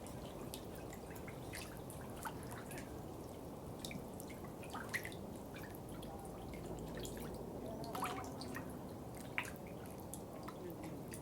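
Water dripping and trickling: many irregular drips and plinks over a steady low burble of running water, with a few louder drops about halfway through and near the end.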